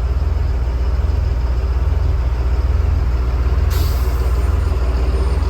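5.9 L Cummins turbo diesel idling steadily in a Freightliner MT55, heard from inside the cab. About two-thirds of the way in comes a short, sharp burst of air hiss from the air-brake system, fading over about a second.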